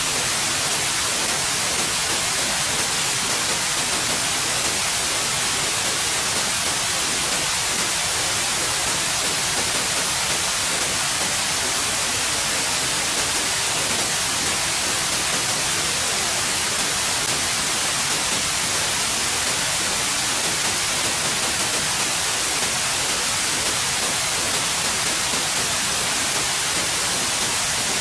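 Steady white noise: an even, unchanging hiss, strongest in the high range, with no rhythm or events.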